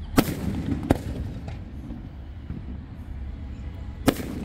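Aerial firework shells bursting: two sharp bangs in the first second, then another right near the end, over a steady low background rumble.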